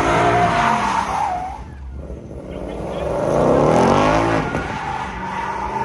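A car engine revving hard in two long swells, its pitch climbing and falling, with tires squealing as the car spins.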